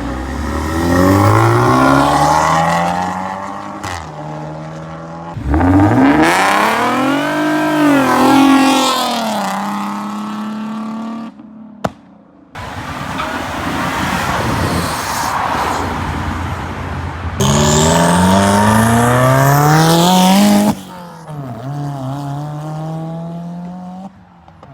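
Cars pulling out hard one after another, engines revving and accelerating with their pitch climbing, in several separate loud pulls that each break off abruptly.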